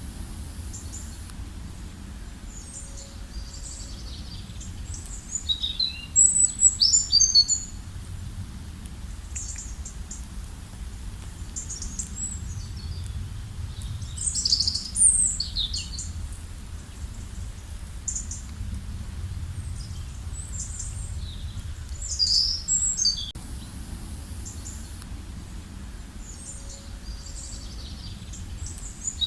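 Small birds chirping: bursts of quick, high notes come every several seconds, with scattered single calls between, over a steady low rumble.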